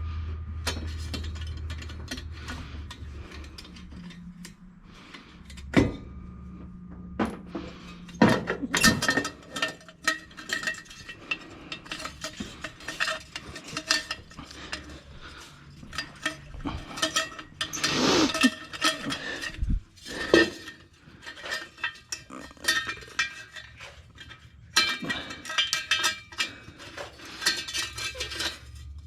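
Metal hand tools and turbo hardware clinking and rattling against each other in a long run of irregular sharp clinks with brief metallic ringing. The clinks are busiest about a third of the way in, around the middle, and near the end. A low hum fades out over the first few seconds.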